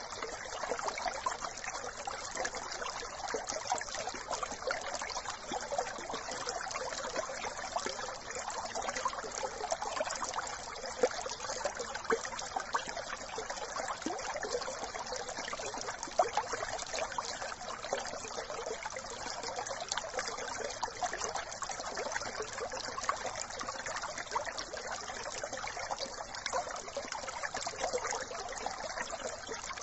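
A brook trickling and babbling over stones, a steady splashing with many small crackles.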